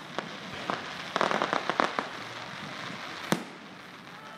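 Fireworks going off: a couple of single pops, then a quick run of crackling bangs about a second in, and one sharp, loud bang near the end.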